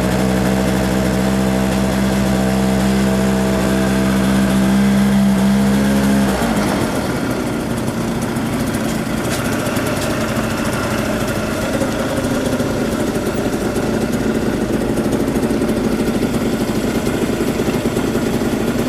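Two-stroke moped engine running at a steady idle. About six seconds in, its even hum changes abruptly to a rougher, noisier running that continues.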